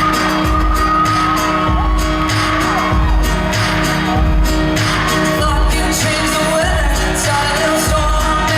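Live country band playing loud through a concert PA: a heavy, steady drum beat under guitars and singing voices.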